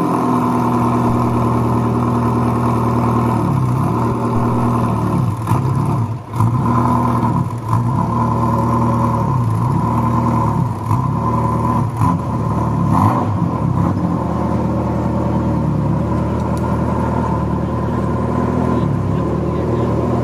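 Ferrari F40's twin-turbo V8 idling steadily just after being started, its pitch rising and dipping slightly a few times in the middle, with a few short sharp clicks.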